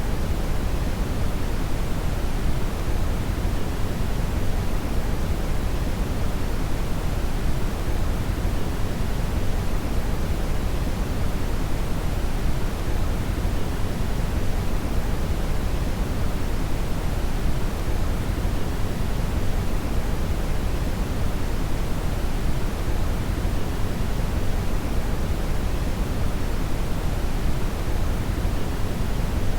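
Steady brown noise: a deep, even rushing hiss, strongest in the low end and falling off toward the highs, unchanging throughout.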